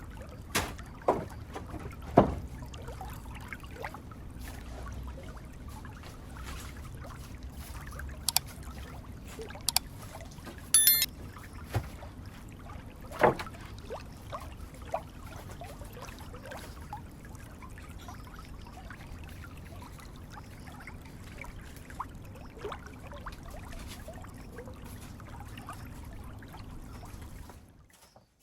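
Scattered sharp knocks and clicks, the loudest about two seconds in and most of them in the first half, over a steady background noise.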